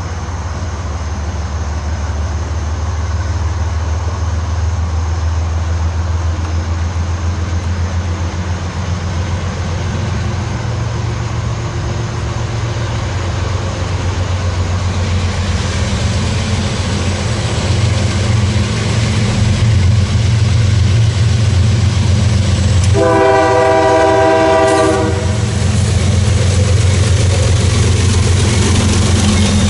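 CSX freight train's diesel locomotives approaching, their low engine rumble growing steadily louder. About three-quarters of the way through, the locomotive horn sounds one chord blast of about two seconds.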